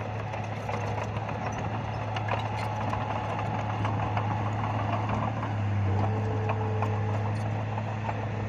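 Bulldozer's diesel engine running steadily with scattered clanks; about six seconds in the engine note shifts and gets louder.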